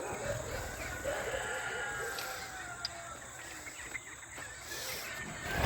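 Penned birds chirping and calling, many short calls overlapping, with one longer, slightly falling call in the middle.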